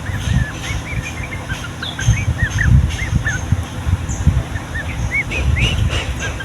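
Yellow-vented bulbuls (trucukan) chattering in a dense run of short, quick rising-and-falling notes, over a loud low rumble.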